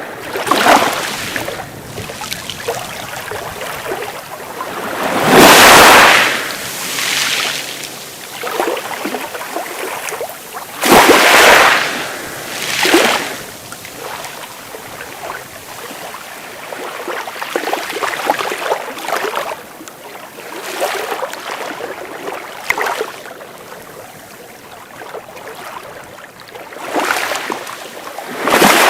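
Sea waves washing onto a beach: a steady hiss of surf broken by several louder washes that swell and fade, the biggest about five seconds in.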